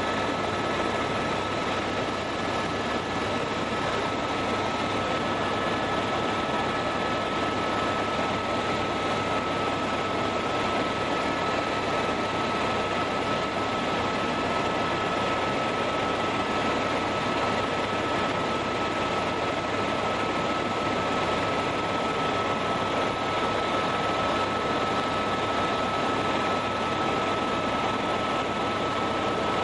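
Tour helicopter in steady cruise heard from inside the cabin: an even rushing drone of rotor and engine with a constant high whine over it.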